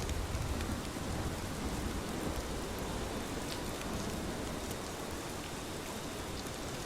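Steady rain falling, with scattered individual drops ticking on a surface. A low rumble fades out in the first second or so.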